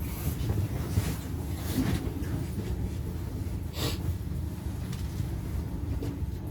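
Steady low rumble of a city tram heard from the driver's cab, with one short hiss about four seconds in.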